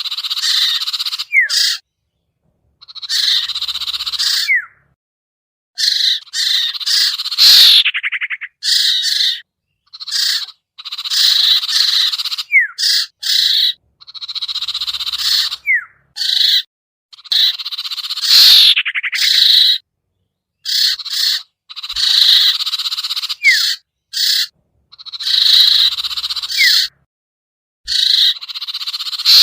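Bird-lure recording of the bird known in Indonesia as sertu or sirtu: harsh chattering calls in short bursts, separated by dead-silent gaps. Several bursts end in a short whistled slur, and the same phrases repeat about every eleven seconds, as in a looped lure track.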